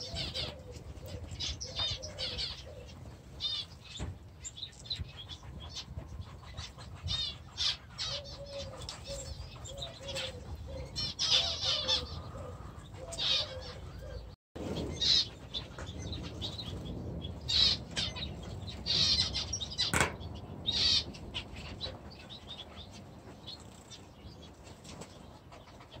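Small aviary birds chirping and chattering in many short, quick warbling calls, with wings fluttering.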